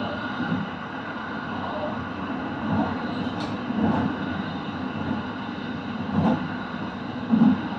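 Kintetsu limited express train running along the track: a steady rolling rumble with a few low thumps from the wheels and a brief click a little over three seconds in.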